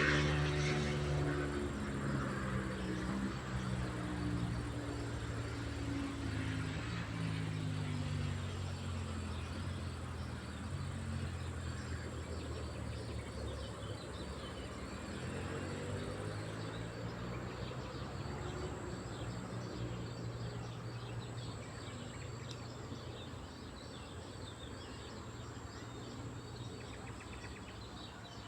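A propeller airplane's engine drone passing and slowly fading away, its pitch sliding gently down and up, with faint insects and birds underneath.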